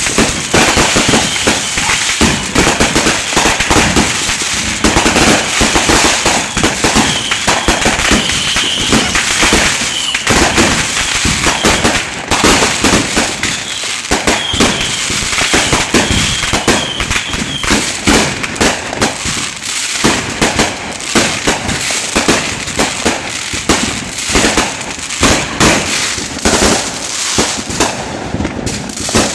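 Consumer fireworks going off at close range in an unbroken barrage of bangs and crackling. A faint wavering high tone rises above it at times.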